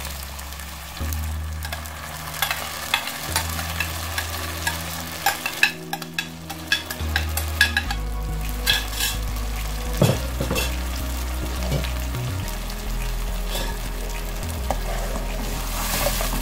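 Blended pepper, onion and scotch bonnet puree frying in hot palm oil in a pot, sizzling throughout. A spoon scrapes and taps the puree out of a bowl, making a run of clicks through the middle, then stirs the pot.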